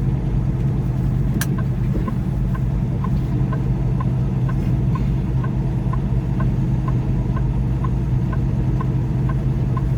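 Semi truck's diesel engine idling steadily, heard from inside the cab, with a light regular ticking about twice a second and one short click about a second and a half in.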